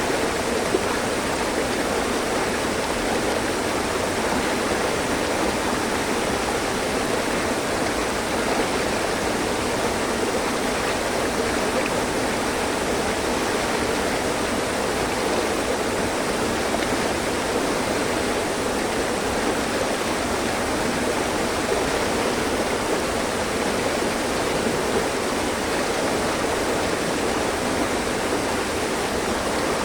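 Mountain stream: water rushing and splashing over rocks in a steady, unbroken flow.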